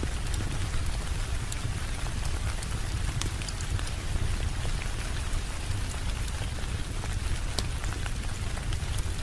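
Steady rain ambience: an even hiss of falling rain over a deep low rumble, with scattered sharp ticks of individual drops.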